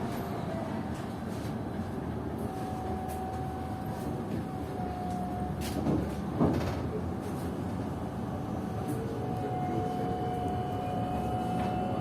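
Cabin ride noise of a PKTS-6281.01 "Admiral" trolleybus: road rumble under the steady whine of its IGBT-inverter-driven AC traction motor, with a couple of knocks around the middle. Near the end the whine rises in pitch as it speeds up.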